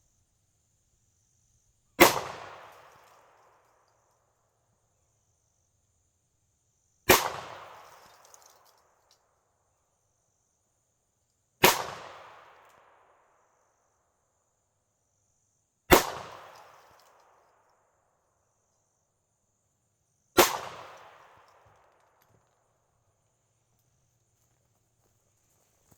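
Five single-action shots from a Smith & Wesson Model 19 .357 Magnum revolver, fired slowly about four to five seconds apart, each sharp crack trailing off in an echo over about a second and a half. It is the revolver's first firing since an obstruction stuck in its barrel was removed.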